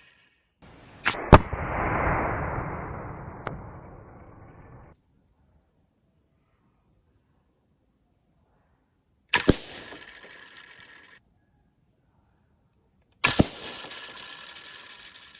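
Three shots from a homemade slingshot, each a sharp crack and then a noisy clattering decay. The first, about a second in, is the loudest and longest at about four seconds; the other two come near the middle and near the end.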